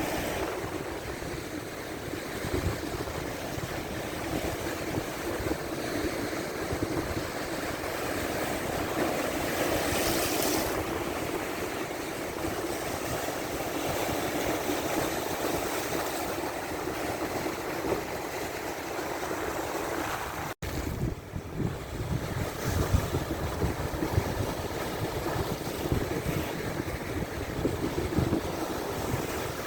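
Big waves surging and breaking on the shore of Lake Superior, with strong wind buffeting the microphone as a low rumble. The wind gusts come harder in the last third.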